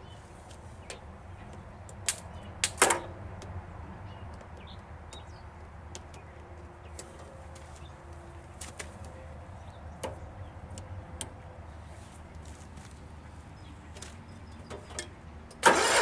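Scattered clicks and knocks of metal tools and parts being handled, with a brief cluster of louder knocks about two to three seconds in. Just before the end the Cub Cadet 1811's starter suddenly begins cranking the engine over, as for a compression reading.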